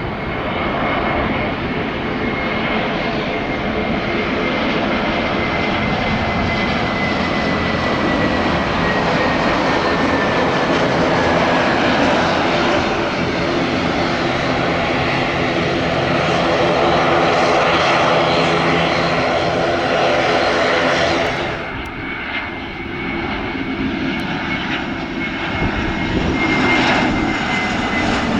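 Airliner engines running with a steady high whine that slowly falls in pitch. About 21 seconds in the sound changes abruptly, then the engine whine carries on.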